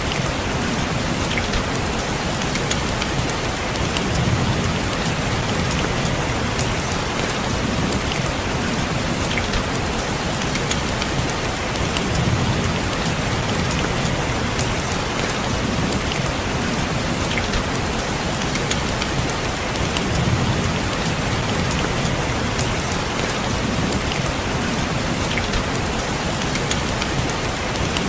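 Steady rain falling on a window, a dense even patter with fine individual drop ticks, over a low rumble that swells every few seconds.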